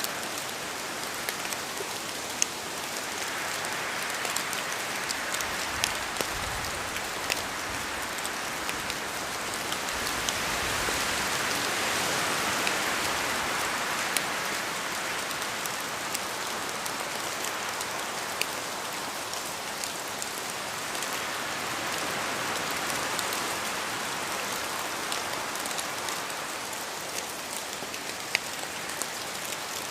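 Steady rain falling through forest trees, with many sharp drop ticks. Wind gusts swell and ease in slow waves every several seconds.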